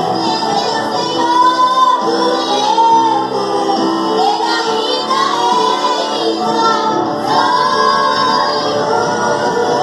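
Gospel song: high female voices sing a melody over sustained instrumental backing.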